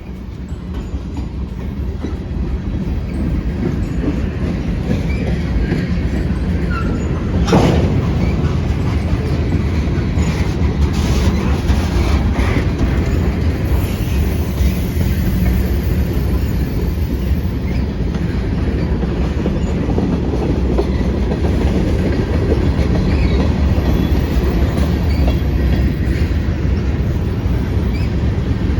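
Freight train rolling past close by: a steady low rumble of wheels on rail with clickety-clack, swelling in over the first few seconds. A sharp clank about seven or eight seconds in, and a few lighter knocks a few seconds later.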